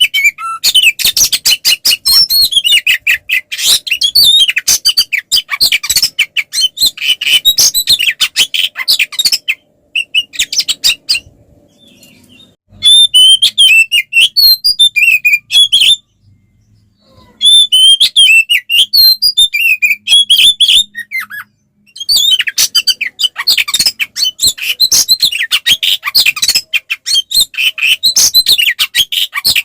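Oriental magpie-robin (kacer) singing a loud, fast, varied song of rapid chirps and harsh notes in its aggressive fighting mode. The song breaks off for a few seconds about ten seconds in and again briefly around sixteen seconds in.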